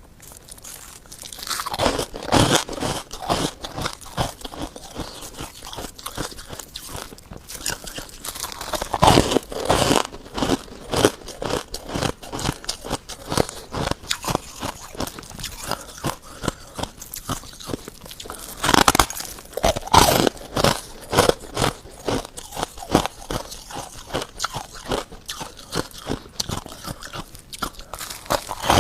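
Freezer frost being bitten and chewed close to the microphone: a dense run of crisp crunches, with louder clusters of bites about 2, 9 and 19 seconds in.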